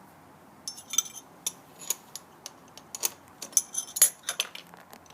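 Metal sockets and hand tools clinking together as they are handled, a quick, irregular run of sharp clinks with a brief metallic ring.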